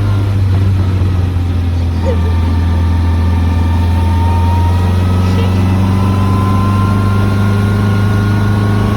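Morgan Plus 4 sports car's four-cylinder engine running steadily at cruising speed, heard from in the car, a deep drone with a faint whine whose pitch creeps slowly up.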